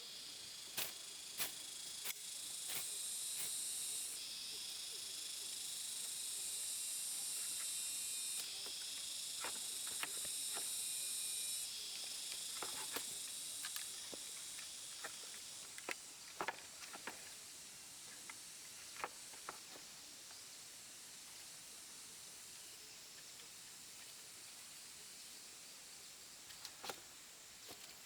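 High, steady insect buzzing that jumps in pitch band and loudness a few times and grows fainter after about twelve seconds, with scattered sharp clicks and taps over it.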